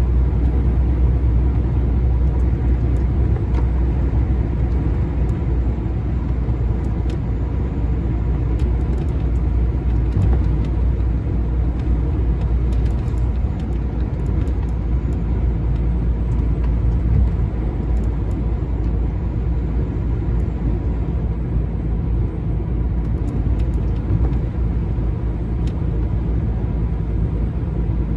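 Lorry's diesel engine and tyre noise while driving, a steady low rumble.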